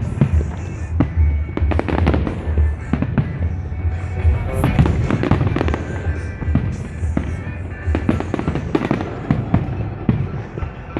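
Fireworks display: a dense run of bangs and crackles from shells bursting, over music playing.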